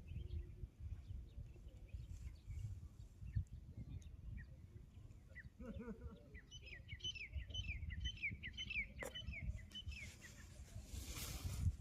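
A small songbird singing a quick series of high chirps, starting about halfway through, over a low rumble of outdoor background noise.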